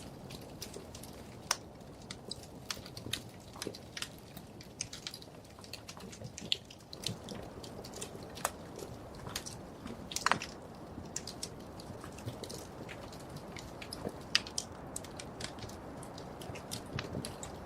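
Wood fire crackling in a fireplace: irregular sharp pops and snaps over a low steady hiss, with one louder pop about ten seconds in.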